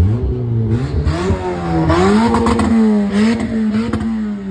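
Loud car engine revving: its pitch climbs about two seconds in, holds high, then eases off near the end.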